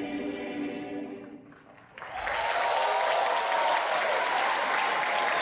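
A choir holds a final sustained chord that fades out about a second and a half in. About two seconds in, audience applause breaks out and keeps going.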